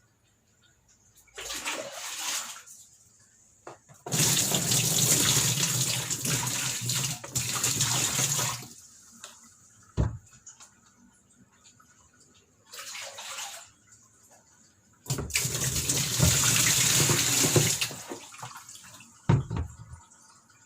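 Tap water running in spells while a washing machine's pulsator and parts are rinsed clean. There are two long runs, of about four and three seconds, with shorter splashes and a few knocks between them.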